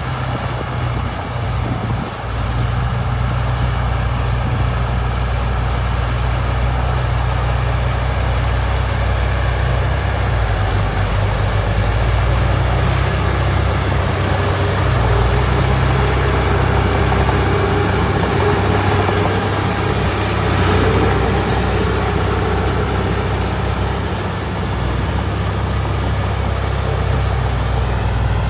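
Heavy diesel engine of earthmoving machinery running steadily with a deep drone, its note shifting a little about ten seconds in.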